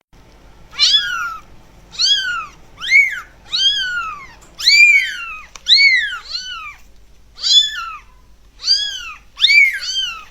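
A cat meowing over and over, about ten high-pitched meows roughly a second apart, each rising and then falling in pitch.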